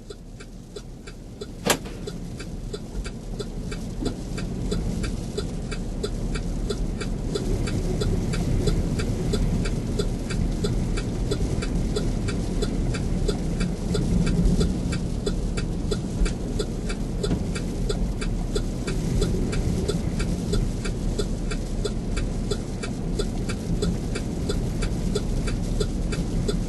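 Inside a moving vehicle: a steady engine and road rumble that builds over the first few seconds, with an even, fast ticking throughout and one sharp click about two seconds in.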